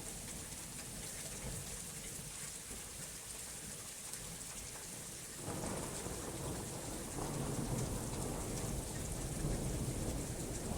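Steady rain hiss, with a roll of thunder breaking in about halfway through and rumbling on, swelling again a little later.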